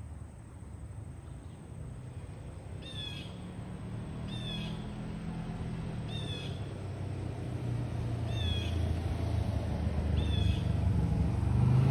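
Five short, harsh bird calls a second or two apart, over a low vehicle rumble that grows louder toward the end.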